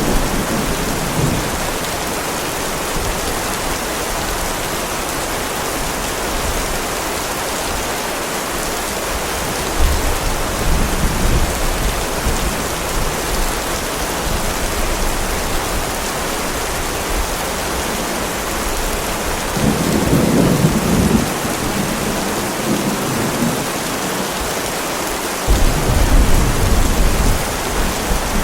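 Heavy rain pouring steadily, with rolls of thunder rumbling low several times: a short one about a third of the way in, a louder swell about two-thirds in, and a long low rumble near the end.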